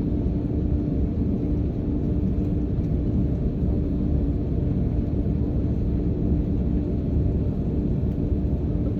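Airliner cabin noise: a steady low rumble with a constant hum.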